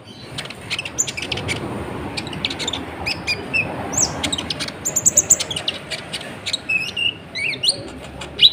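Konin (kolibri ninja), a small sunbird, singing a fast string of short, sharp, high chirps and quick trills over a steady background hiss.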